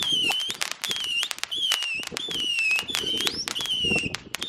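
Fireworks going off: a quick run of short whistles, one after another, over dense crackling and popping.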